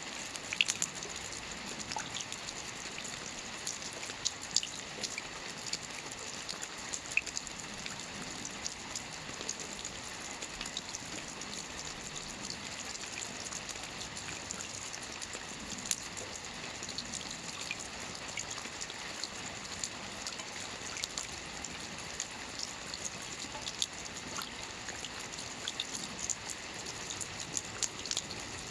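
Steady rain falling on a lake's surface: an even hiss sprinkled with many sharp, scattered drop splashes.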